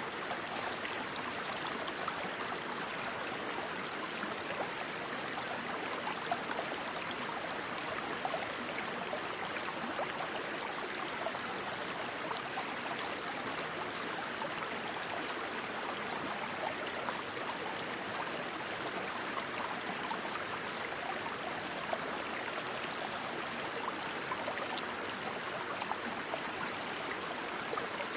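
Rushing stream water flowing steadily, with short high-pitched chirps scattered over it and two rapid trills, one about a second in and a longer one a little past the middle; the chirps thin out and stop in the last few seconds.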